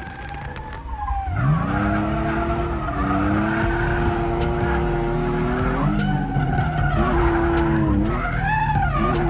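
A drift car's engine revving hard while its rear tires skid and squeal in a slide. The revs climb about a second and a half in and hold high, drop briefly around six seconds, then rise and fall again near the end.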